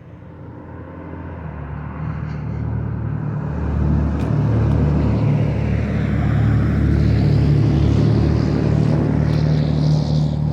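A motor vehicle's engine running close by, growing louder over the first few seconds as it approaches, then staying loud and steady.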